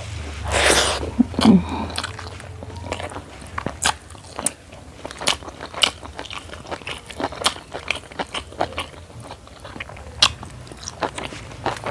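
Close-miked eating: chewing and crunching of food, with many sharp mouth clicks spread throughout. A short throat noise comes near the start, about a second and a half in.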